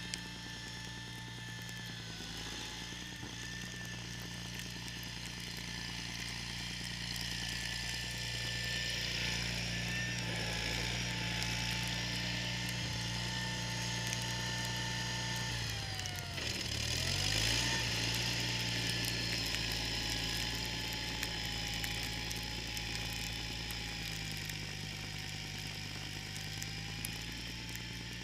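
John Deere 318 garden tractor's two-cylinder engine running steadily under load, driving a front-mounted snowblower whose spinning auger and impeller add a constant hiss. About two-thirds of the way through, the engine speed drops briefly and comes back up.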